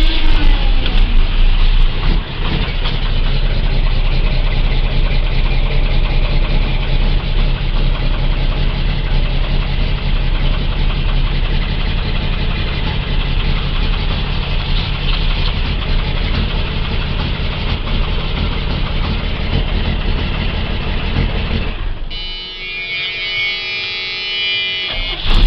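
Cummins diesel engine of a Freightliner tow truck on a cold start, turning over and running steadily but unevenly. About three seconds before the end the engine sound drops away and a steady, high buzzing tone takes over.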